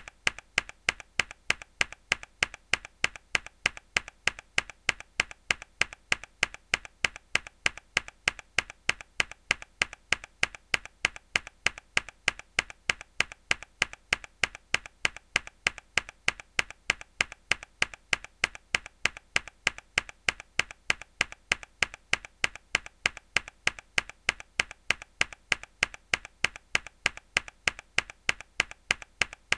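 A single hard key press on a mechanical keyboard, looped: sharp, identical clacks repeating evenly at about three a second.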